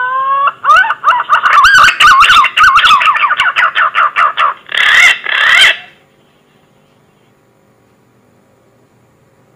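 Green pigeon (punai) calling: a rising whistled note, then a quick run of warbling, wavering whistles, ending in two strong notes and stopping about six seconds in.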